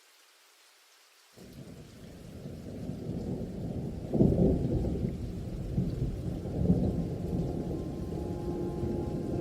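Thunder rumbling during a monsoon storm: a deep roll starts suddenly about a second and a half in, builds, and peaks in a louder crash about four seconds in before rolling on.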